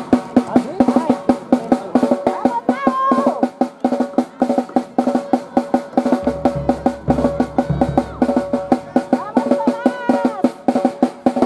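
A drum beaten in a fast, steady rhythm, about five strokes a second, over a steady held tone. Voices shout briefly a few times.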